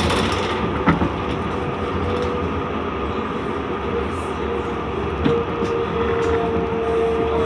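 Inside a C Class (Alstom Citadis) tram running along the track: a steady rumble of wheels on rail with a constant whine from the drive. A few short knocks and clicks come from the wheels over the rails, one about a second in and another after about five seconds.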